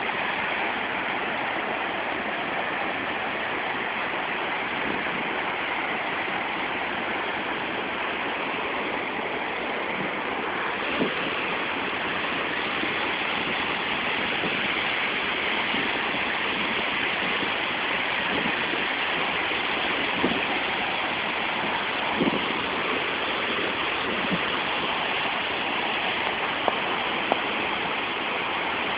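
Waterfall water rushing: a steady, even roar of falling water, with a few faint brief clicks or splashes now and then.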